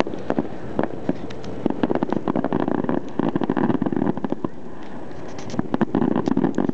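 Aerial fireworks popping and crackling in rapid, dense volleys. There is a thick spell of crackle about two seconds in, a short thinner stretch, and another thick spell near the end.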